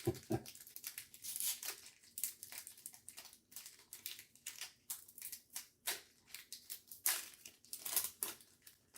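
Foil Pokémon card booster pack wrapper being crinkled and torn open by hand: a run of irregular crackles and rustles.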